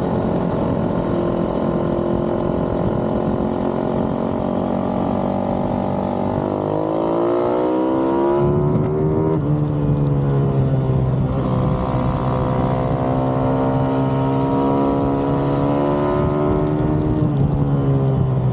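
Single-cylinder pit bike engine running hard on the track. Its pitch climbs steeply about seven seconds in, then keeps rising and dropping back sharply as the rider shifts, the last sharp drop coming near the end.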